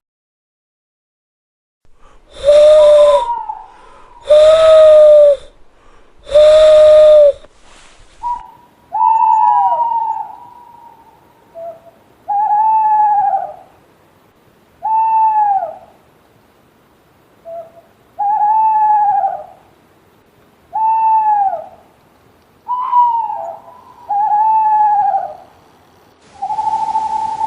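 Owls hooting: three loud, low, drawn-out hoots about two seconds apart, then a different, higher series of shorter arched hoots repeating every two to three seconds.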